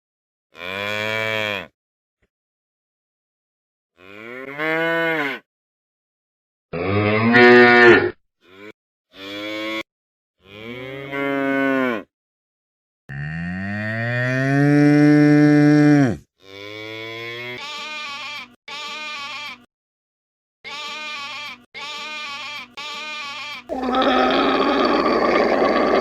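A series of cow moos, each a separate call cut against silence, about a dozen in all; one long moo near the middle lasts about three seconds. Near the end a rougher, noisier animal call starts.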